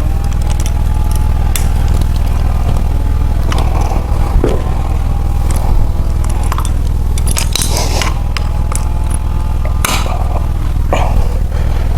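Metal hand tools clicking and clinking on engine parts during pushrod and rocker adjustment on a Chevy 350, with several sharp clinks scattered through, over a steady low hum.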